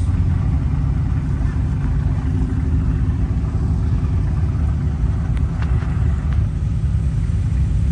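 A steady low rumble of a car engine running, with a few faint clicks about five and a half to six seconds in.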